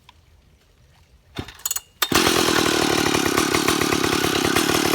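Stihl 031AV two-stroke chainsaw, converted to electronic ignition, being started: a few brief sputters about a second and a half in, then the engine catches about two seconds in and runs steadily.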